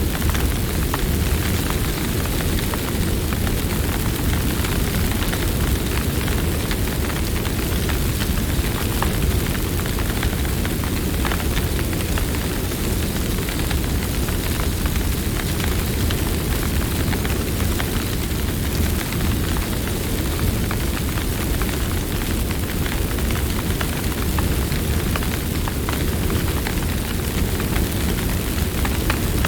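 Campfire burning: a steady low rush of flames with scattered sharp crackles and pops of the burning wood.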